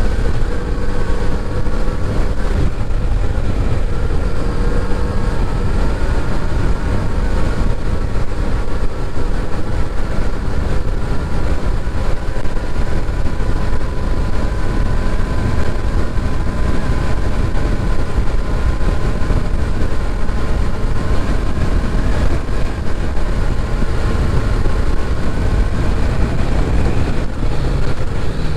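Kawasaki Z900RS's inline-four engine running at a steady cruise, with heavy wind rumble over the microphone.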